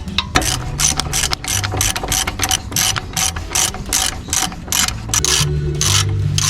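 Ratchet wrench clicking through quick, even strokes, about three a second, as nuts are run down on the axle hub.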